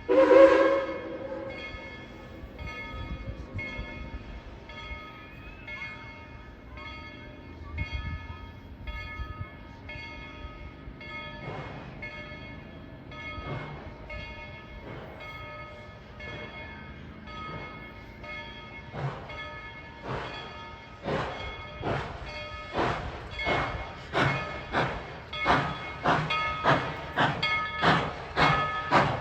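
Tweetsie Railroad #190 steam locomotive: a short whistle blast at the start, then its exhaust chuffing as it gets under way. The chuffs grow louder and quicker toward the end.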